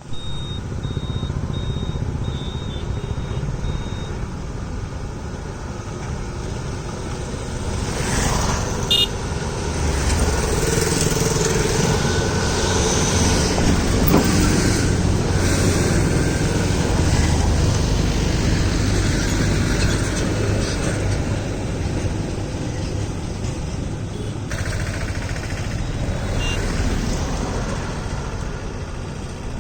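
Fully loaded truck's engine running at low speed, its rumble growing louder from about eight seconds in and easing back after about twenty.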